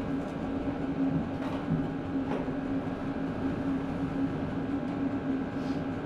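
A steady machine hum with a few faint light clicks.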